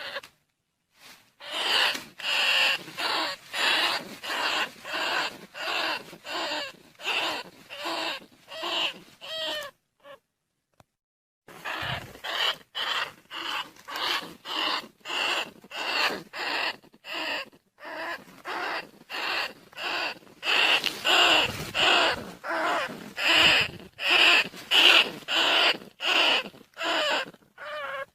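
Rat lure call: rapid, evenly repeated high squeaks, about two a second, with a pause of about two seconds around the middle. The calls are played to draw field rats and bandicoot rats.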